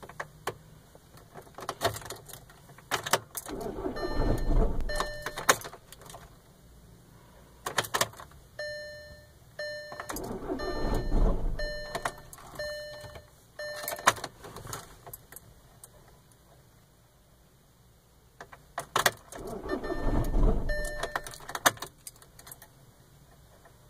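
2010 Volkswagen Jetta TDI's 2.0-litre four-cylinder diesel being cranked by the starter three times, each for a second or two, without catching: a hard-starting engine. Key clicks and the dashboard's warning beeps come between the attempts.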